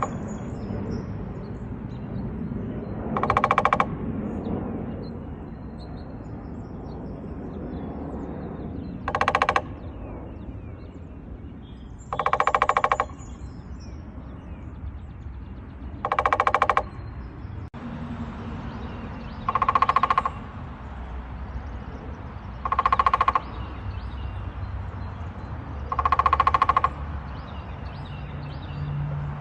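Woodpecker drumming on a hollow tree trunk: seven short, rapid rolls about every three seconds, the hollow trunk giving each roll a resonant ring. A low, steady background rumble runs underneath.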